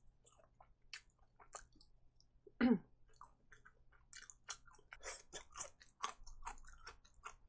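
Close-miked chewing of powder-coated fried chicken drumstick meat: many short, sharp mouth clicks and smacks, sparse at first and coming thick and fast after about four seconds. One brief, louder voiced sound from the eater about two and a half seconds in.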